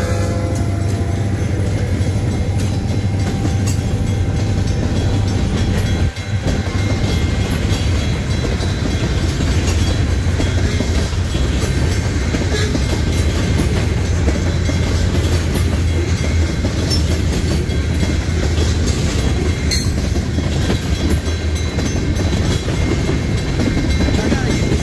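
A diesel freight train led by four EMD road-switcher locomotives going by. The locomotive engines drone low and steady under the rumble and clatter of wheels on the rails.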